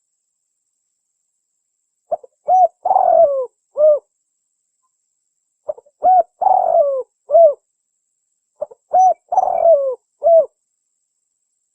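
Spotted dove cooing: three phrases, each of a few short coos around a longer falling coo, repeated about every three and a half seconds.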